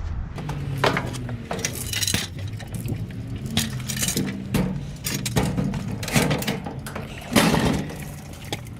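Scrap metal being handled: a run of irregular metallic clanks and bangs, with the loudest bang about seven and a half seconds in.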